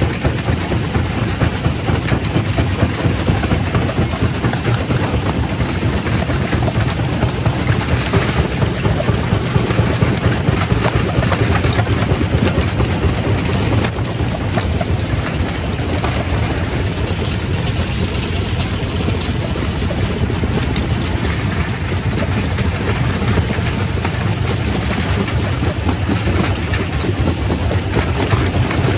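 Quarry primary rock crusher running: a steady low machine drone with continuous crunching and irregular knocks of rock being broken.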